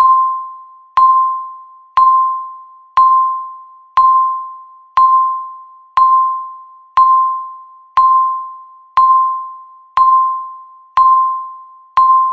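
A countdown timer's electronic tick-beep, once every second: a single clear tone that strikes sharply and fades away before the next, counting down the final seconds toward zero.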